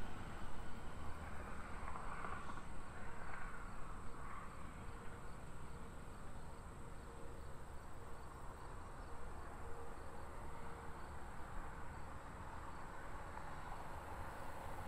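Outdoor ambience of insects chirping steadily, with a faint regular chirp repeating through much of it, over a low steady rumble.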